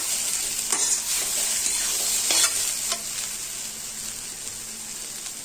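Grated cauliflower with spices frying and sizzling in a steel kadhai while a metal spatula stirs it, a few scrapes of the spatula against the pan standing out over the steady hiss.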